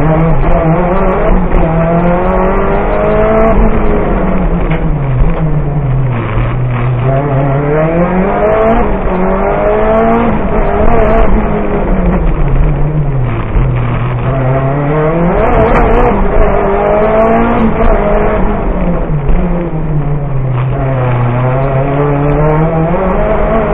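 Lancia Delta Evo rally car's engine heard from inside the cabin, driven hard: the revs repeatedly climb and then drop back every few seconds as the car accelerates and slows for turns.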